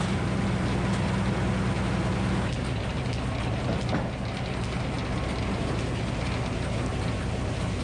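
Minneapolis Moline HEB 605 cubic inch engine running steadily to power a Frick circular sawmill, under a broad rushing noise. The engine's note changes about two and a half seconds in.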